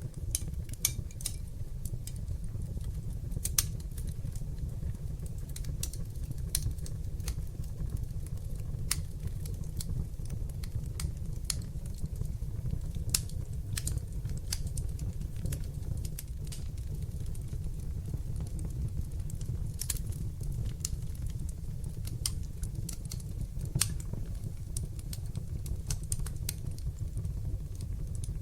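Fireplace fire burning: a steady low rumble of flames with irregular sharp crackles and pops, a few of them louder.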